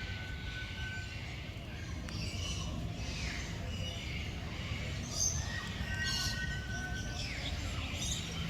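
Birds chirping and calling, with held whistled notes and short chirps, over a steady low rumble of background noise.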